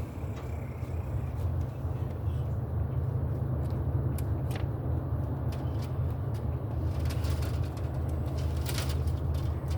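Electrical wires being handled and pulled through PVC conduit, giving scattered light clicks and scrapes that become more frequent near the end, over a steady low rumble.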